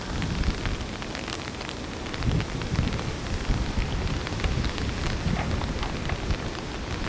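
Steady rain, with drops tapping close to the microphone as many small sharp ticks over a low rumble.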